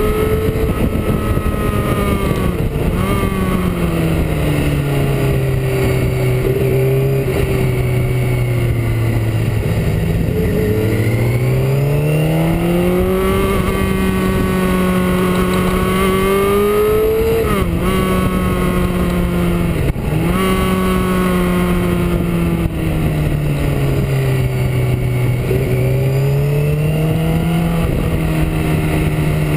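Motorcycle engine under way, heard from the rider's own bike: its pitch climbs and falls with the throttle, with a few short dips at gear changes, over a steady rush of wind on the microphone.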